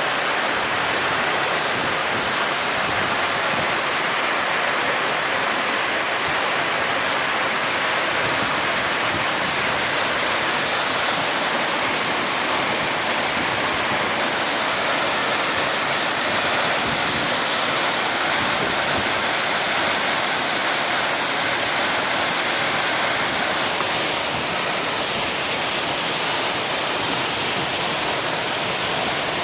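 Waterfall rushing close by: a loud, steady roar of falling water that stays even throughout.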